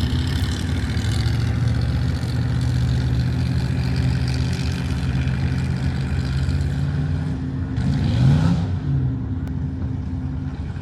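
Truck engine running hard at a steady pitch, as in a truck pull. About eight seconds in, the pitch briefly rises and falls with a short burst of noise.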